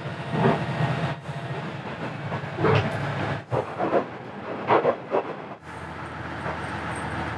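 Diesel railcar running, heard from inside the car: a steady low engine hum under wheel-on-rail noise, with a few short louder rattles. It comes as several short clips joined with abrupt cuts.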